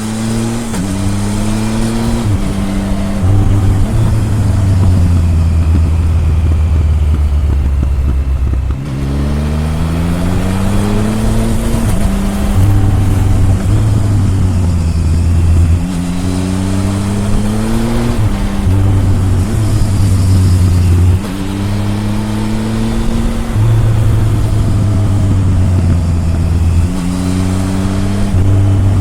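Triumph Tiger 1050's three-cylinder engine, heard through its exhaust, pulling hard through the gears. Its pitch rises and drops back at each upshift, then it rolls off and pulls again several times between bends.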